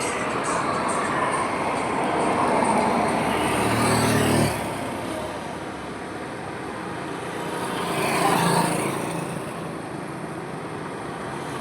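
Highway traffic with vehicles passing one after another: a heavier vehicle's engine builds and cuts off sharply about four seconds in, and another vehicle swells past near eight seconds.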